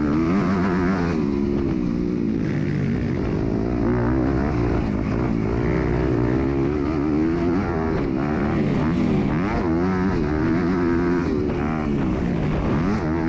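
Motocross bike engine revving up and down continually as the rider accelerates, shifts and backs off, heard close up from the bike-mounted camera.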